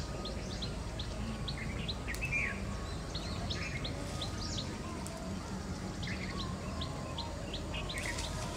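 Wild birds chirping and calling: many short, high chirps and some brief falling calls, repeating throughout over a steady low background rumble.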